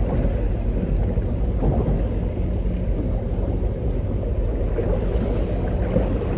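Steady low boat-engine hum under wind buffeting the microphone and water noise.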